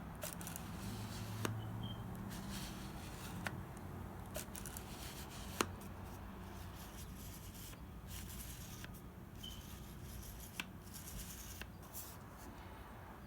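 Canon EF 75-300mm zoom lens giving scattered sharp clicks and faint scraping as it is worked, with a brief low hum in the first couple of seconds. This is the odd noise the new lens makes when zoomed back in, which the owner puts down to mishandling.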